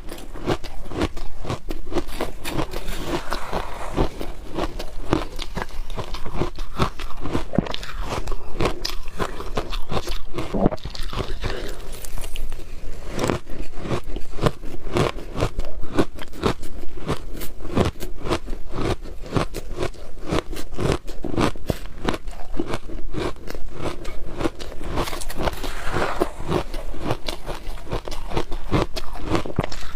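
Close-miked biting and chewing of frozen shaved ice: a dense, continuous run of rapid crisp crunches.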